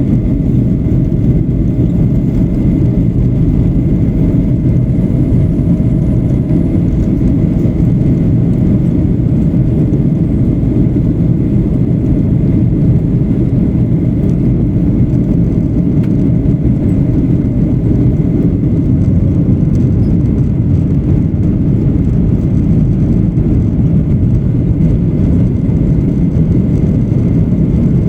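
Steady cabin noise of a Boeing 737-800: an even low rush of engines and airflow, with a faint steady high tone above it.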